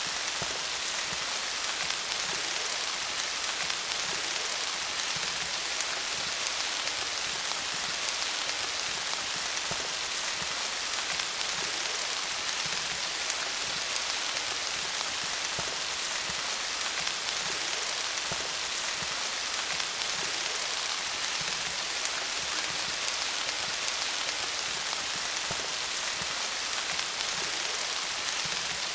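Steady rain falling on leaves, a dense even patter of drops with no lulls.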